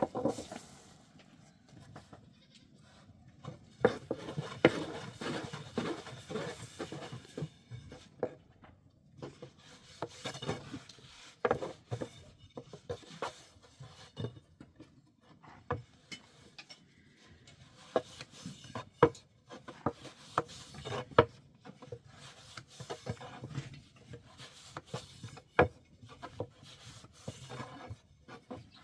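Goats bleating now and then, amid irregular knocks, clicks and rubbing sounds.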